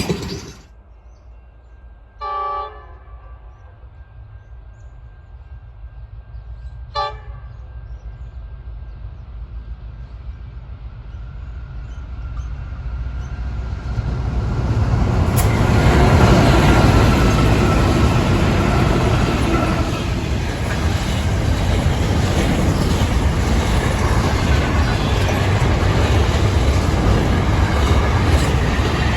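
A loud sound cuts off abruptly just after the start. Then the horn of a Pacific National NR class diesel-electric locomotive gives two short toots, the second briefer. After that the four-locomotive intermodal freight train approaches, its rumble growing steadily louder and then holding loud and steady.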